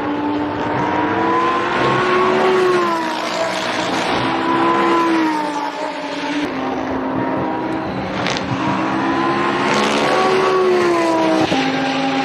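Lamborghini Essenza SCV12's naturally aspirated V12 racing engine under load, its pitch rising and falling several times. There are abrupt drops in pitch about six and eleven seconds in.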